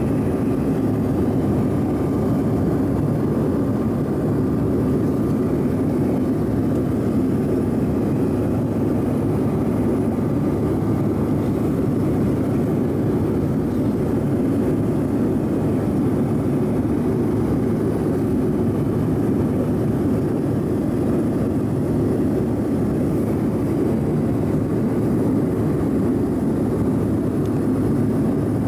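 Steady low drone inside the cabin of a Bombardier CRJ-900 airliner, from its rear-mounted jet engines and the rush of air, with no change in pitch or level.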